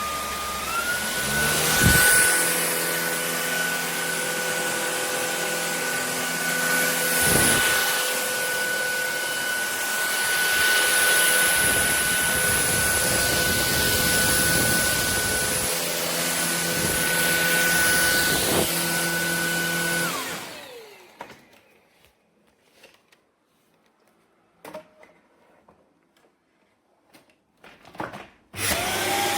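Shark Detect Clean & Empty cordless vacuum running with a steady motor whine whose pitch steps up shortly after the start. It switches off after about 20 seconds, winding down, and a few faint knocks follow. Near the end it starts up again.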